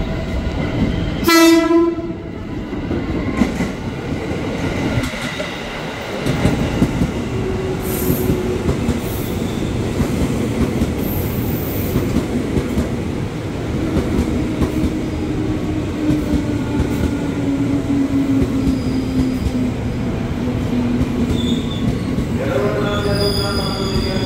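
JR 205 series electric commuter train giving a short horn blast about a second in. It then rolls alongside the platform with wheel-on-rail rumble and a motor whine that falls slowly in pitch as it slows. Another horn starts near the end.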